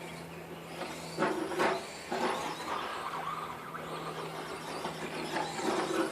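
Electric RC car driving, its motor whining up in bursts of throttle, loudest about a second in and again near the end.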